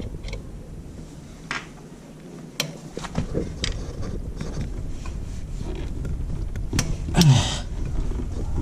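A hooked spring-puller tool working at a motorcycle center stand's return spring: scattered light metal clicks and taps as it catches and slips on the spring. A short vocal sound with falling pitch comes about seven seconds in.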